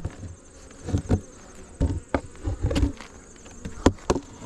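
Honey bees buzzing around an open hive, with a scattering of sharp clicks and low knocks from handling the hive equipment.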